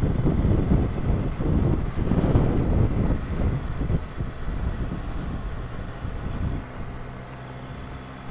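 Motorcycle on the move, with low wind rumble on the microphone that eases as the bike slows; about six and a half seconds in, the engine settles to a steady idle.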